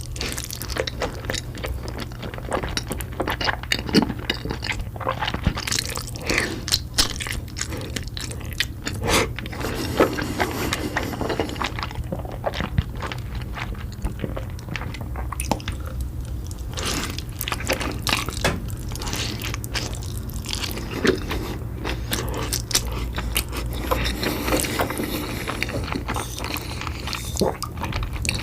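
Close-miked eating: a person chewing and biting, with many irregular wet clicks and crunches, over a steady low hum.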